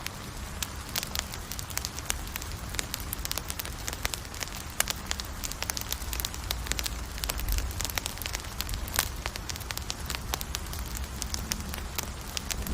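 Campfire crackling: wood burning with many irregular sharp snaps and pops over a low, steady rumble.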